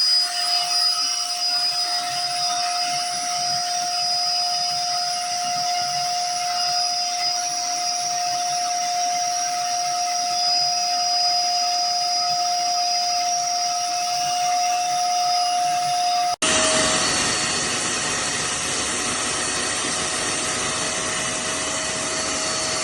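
LEHMANN Haddo 2000 W industrial wet-dry vacuum motor running steadily, a rushing noise with a high steady whine. About sixteen seconds in it cuts abruptly to another steady run of the vacuum that sounds slightly different.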